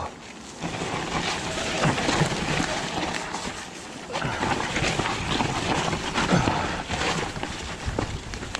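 Strong wind buffeting the microphone over a mountain bike riding down a muddy, slippery trail, with tyre noise and knocks and rattles from the bike, surging and easing in gusts.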